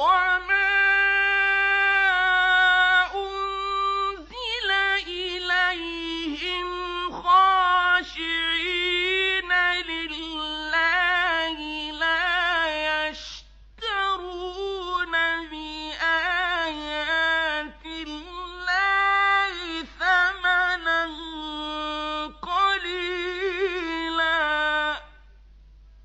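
A male reciter chanting the Quran in the ornate mujawwad style, in long melismatic phrases held at a high pitch with wavering ornaments. There is a short break for breath about halfway through, and the phrase ends about a second before the end.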